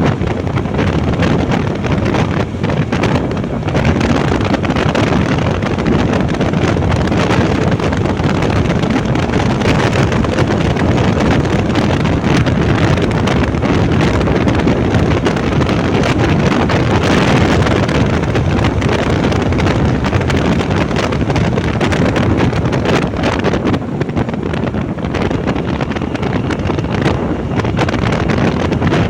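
Loud, steady wind buffeting the microphone of a motorbike on the move, mixed with the bike's running noise.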